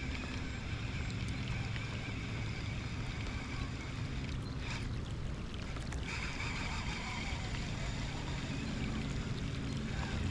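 Steady outdoor ambience on a small boat during light rain: an even wash of rain and wind noise under a low, steady hum, with a brief rustle of handling about halfway through.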